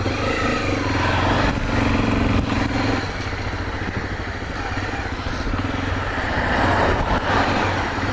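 Honda XRE 300's single-cylinder engine running as the motorcycle is ridden slowly, under a steady rush of noise. The engine eases off about three seconds in.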